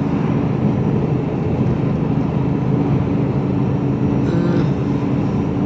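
Steady drone of a Mercedes-Benz Actros truck cruising, heard inside the cab: diesel engine hum mixed with road and tyre noise.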